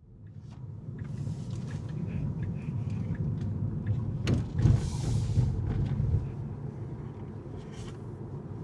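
Steady low rumble of a car driving, engine and tyre noise, fading in at the start. About four seconds in there is a sharp click, then a louder rush of hiss lasting about a second.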